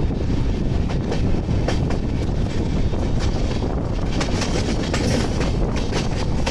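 Shatabdi Express passenger train running along the track: a steady, heavy rumble of wheels on rail, with a run of sharp clickety-clack as the wheels pass over rail joints.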